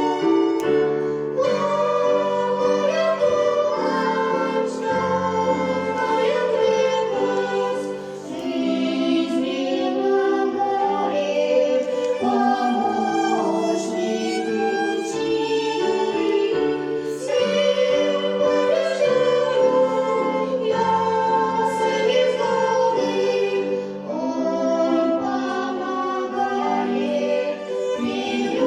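A song sung by voices, choir-like, over instrumental accompaniment.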